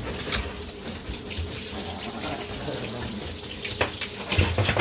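Tap water turned on and running steadily into a dog-grooming tub during a bath, with a few small knocks near the end.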